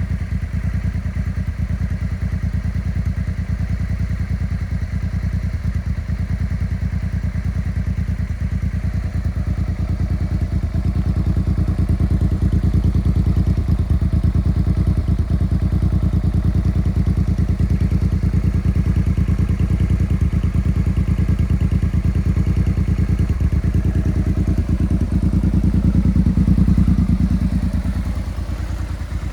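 Honda Bros 650's V-twin engine running through a custom left-exit muffler with a reverse-cone perforated core, idling with a steady exhaust beat. The revs come up slightly about twelve seconds in, rise a little more near the end, then drop back.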